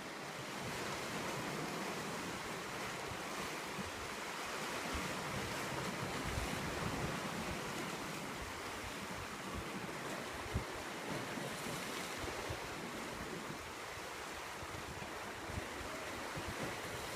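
Sea surf washing steadily on the shore, with wind buffeting the microphone in uneven low rumbles. A single sharp click about ten and a half seconds in.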